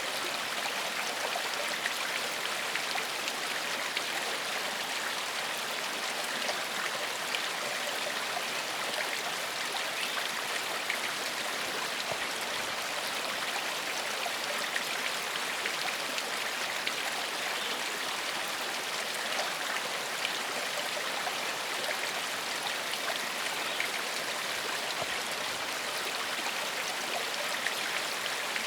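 Forest stream flowing steadily over stones, a constant babbling rush of water with fine splashes and gurgles.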